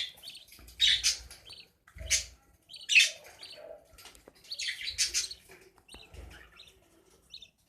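Budgerigars chirping and chattering in an aviary cage: a string of short, sharp, high calls about a second apart, fading near the end.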